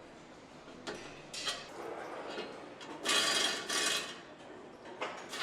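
Factory floor work noise: a few knocks and clanks, then a loud hissing burst about three seconds in and a shorter one near the end.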